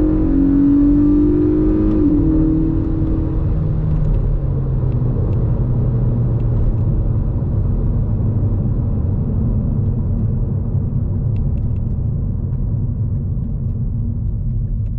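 2022 Kia Cerato GT's 1.6-litre turbo-petrol four-cylinder running under acceleration, with a drop in pitch about two seconds in as the dual-clutch gearbox shifts up. After that the engine note fades, leaving a steady low rumble of road and tyre noise that slowly dies down.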